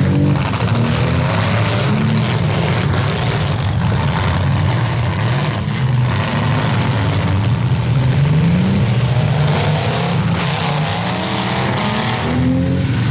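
Several demolition derby cars' engines running and revving at once, their pitches rising and falling as the cars accelerate and back off.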